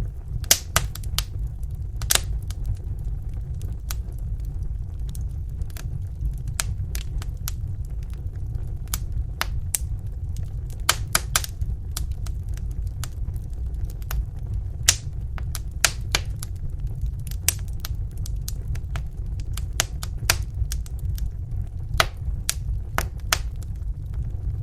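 Wood fire in a fireplace crackling, with irregularly spaced sharp pops over a steady low rumble.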